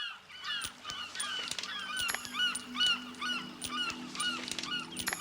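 A flock of birds calling, many short calls overlapping in a fast, repeated chorus. Low steady music comes in underneath about two seconds in.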